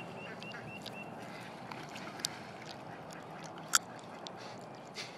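Birds giving a few short calls in the first second over a steady rushing background, with two sharp clicks, one about two seconds in and one near four seconds in.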